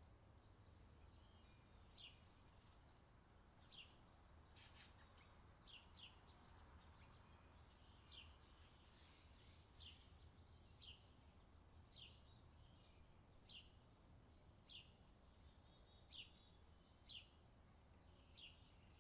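A small bird repeating short, high chirps that drop in pitch, about one a second, faint over a low steady background rumble.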